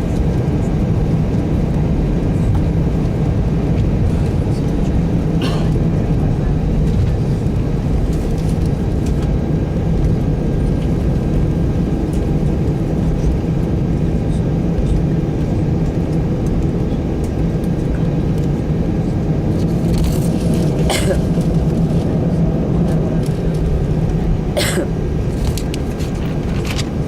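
Airbus A319 engine and airframe noise heard inside the passenger cabin: a steady, loud rumble with a low hum. Brief clicks come three times, about five, twenty-one and twenty-five seconds in.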